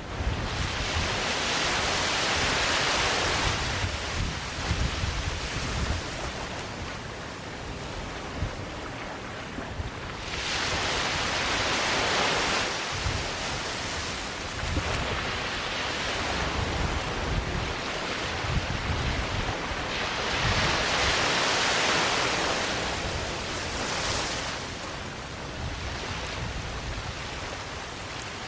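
Sea waves washing up a sandy beach, three surges about ten seconds apart, each swelling and fading. Wind rumbles on the microphone underneath.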